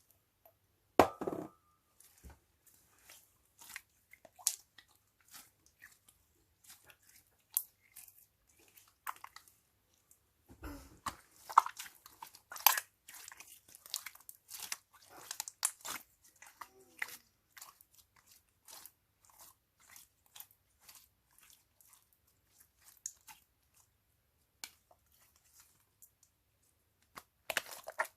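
Slime being squeezed and mixed by hand with added bits, giving irregular crackling clicks and crunches that come thicker about halfway through and again near the end. There is a louder thump about a second in.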